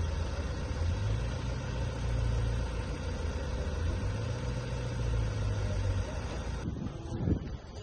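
Steady low rumble of an idling vehicle engine. It cuts off abruptly near the end.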